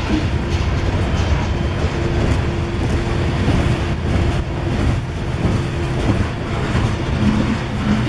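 Freight train climbing a grade, its diesel locomotives working hard with a loud, steady drone over the rumble of the train.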